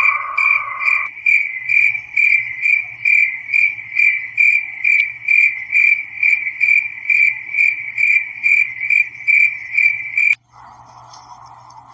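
Cricket chirping in an even rhythm, about two and a half chirps a second, stopping abruptly near the end. A steady lower tone fades out about a second in, and a fainter, lower hum follows the chirping.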